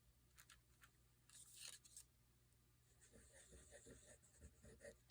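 Near silence with faint paper-crafting handling: a few light ticks, a soft rustle of paper a little over a second in, and quiet fiddling sounds in the last couple of seconds.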